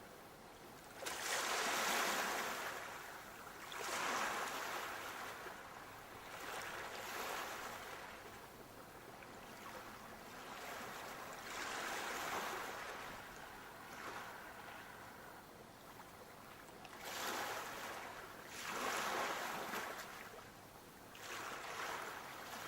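Sea waves breaking and washing in, a surge of surf every few seconds that swells and dies away, the loudest about a second in.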